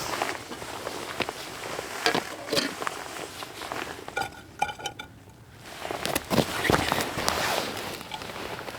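Camp cookware and gear being handled: scattered knocks, clicks and clinks, with a quick run of short pitched notes about four seconds in.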